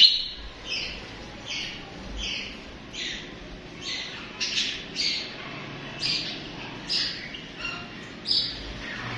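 Budgerigars chirping: short, high calls repeating about once or twice a second, with a loud call right at the start.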